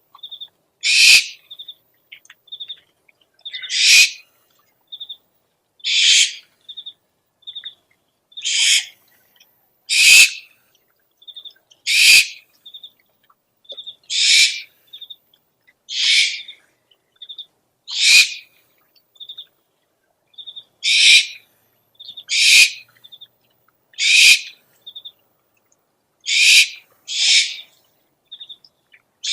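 Owl lure recording: short harsh, hissing screech calls repeating about every two seconds, with quick high-pitched pips in the gaps between them.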